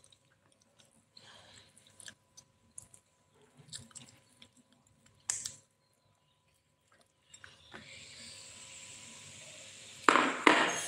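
Close-up chewing and biting of fried tofu with stir-fried napa cabbage: soft, irregular mouth clicks and light crunches. Near the end a steady hiss comes up, then two loud, sharp knocks about half a second apart.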